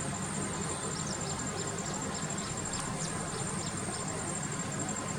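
Steady, high pulsing insect trill with a run of short, high chirps from about one to four seconds in, over a constant low background noise.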